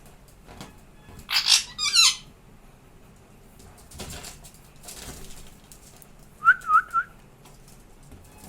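Parrot calls: two harsh screeches in quick succession, then a few seconds later three short whistled notes.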